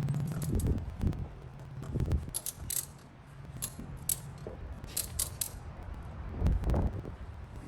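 Metal tie-down strap hardware clicking and rattling in quick groups, typical of ratchet straps being tightened. A low steady hum runs underneath and stops about four and a half seconds in.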